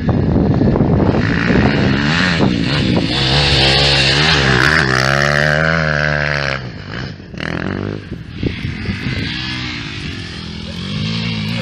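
Kawasaki KX250F four-stroke single-cylinder motocross engine revving hard under load, held high for several seconds, then shut off about six and a half seconds in, followed by a few short throttle blips and the engine building again near the end.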